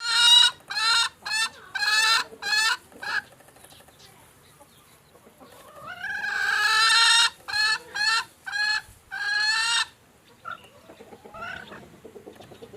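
A chicken clucking loudly in runs of short calls, with one long drawn-out call about six seconds in, then fainter clucks near the end.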